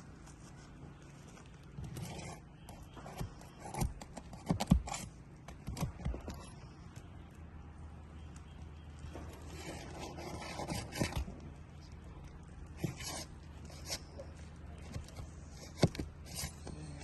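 Scraping and rubbing on 3-tab asphalt shingles as they are worked loose, with scattered sharp knocks and clicks.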